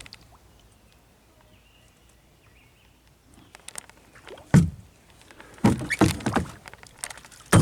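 Kayak paddling: a few quiet seconds, then sharp knocks and splashes as the paddle strikes the kayak's hull and the water. The loudest knock comes about halfway through, followed by a quick cluster of knocks near the end.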